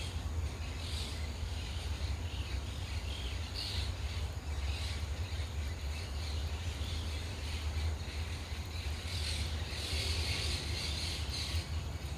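Outdoor riverside ambience: a steady low rumble with faint high chirps coming and going, busiest about ten seconds in.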